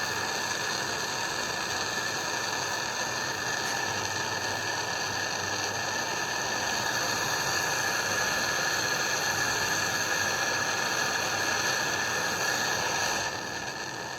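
A steady hissing noise with several high whining tones in it, which dies away and stops near the end.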